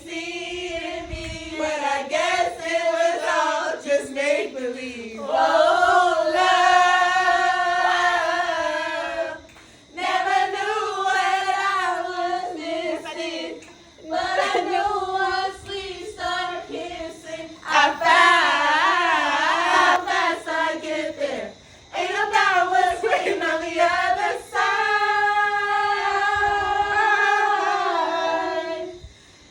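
A group of voices, mostly women, singing together without instruments, in phrases of long held notes with short pauses between them.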